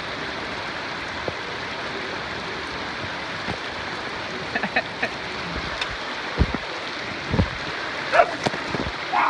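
Steady hiss of falling rain, with a few short dog barks and yips in the second half, the loudest near the end, and a couple of low thumps.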